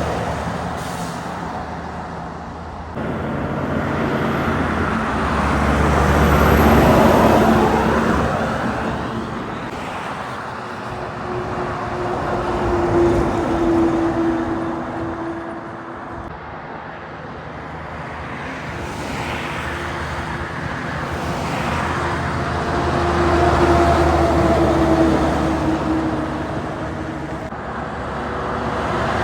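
Heavy trucks and other road traffic passing one after another, the engine and tyre noise swelling as each vehicle approaches and fading as it goes by, with the loudest passes about a quarter, half and four-fifths of the way through.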